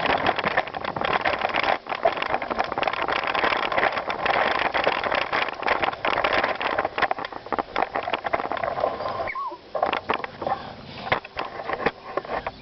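Bicycle rolling over gravel: a dense rattle of tyre crunch and small clicks, dropping away about nine seconds in to scattered clicks and a brief squeak.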